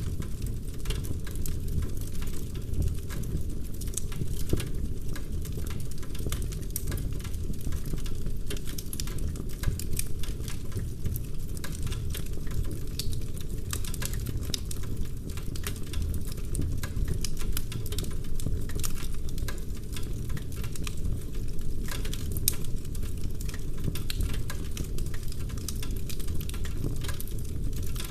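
Log fire in a fireplace crackling, with many small irregular pops and snaps over a low, steady rumble of burning.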